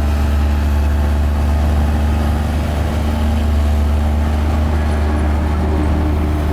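Mini Komatsu bulldozer's diesel engine running steadily, a deep, even drone.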